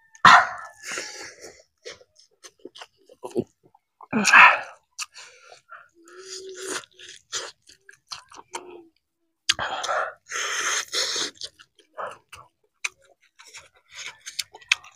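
Close-miked wet chewing and lip-smacking of a person eating spicy rice and chicken by hand, with a few louder rushes of breath about a second in, around four seconds and around ten seconds.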